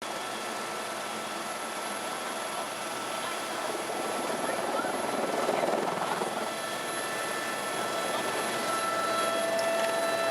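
Tour helicopter running: a steady rushing noise with thin steady whining tones over it, growing louder for a moment about halfway through.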